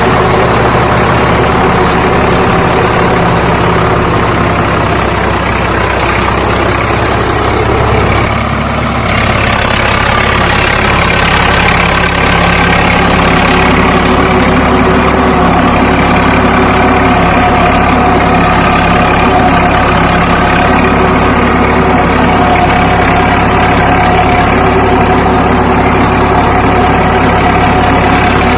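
Swaraj 855 FE tractor's three-cylinder diesel engine running steadily, dipping briefly about eight seconds in and then picking back up.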